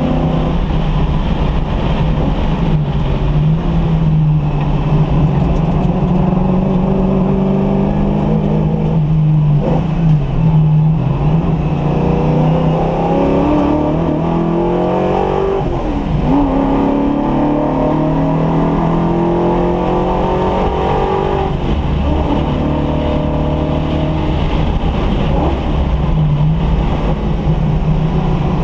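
Car engine being run in, pulling up through the revs and dropping back several times, its pitch climbing steadily then falling away at each gear change or lift off the throttle.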